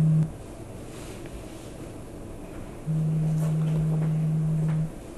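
Low, steady electronic tone in long pulses, a phone ringing or buzzing with the call going unanswered. One pulse ends just after the start, and a second lasts about two seconds from about three seconds in.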